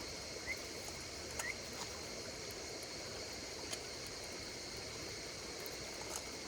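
Campfire crackling, with a few sharp pops scattered through, over a steady high chorus of insects.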